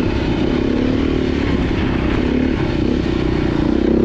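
Dirt bike engine running at steady revs as the bike is ridden along a trail.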